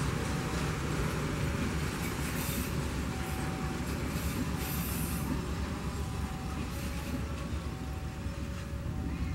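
A train passing close by: a steady low rumble from the wheels on the rails, with a faint two-note tone repeating in the background.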